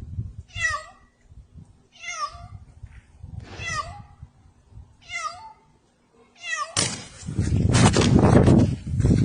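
A cat meowing over and over, five separate meows about a second and a half apart. About seven seconds in, a loud noisy rush starts and covers the rest.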